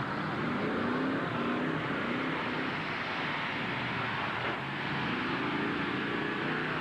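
Derby trucks' engines running and revving, their pitch rising and falling twice over a steady noisy din.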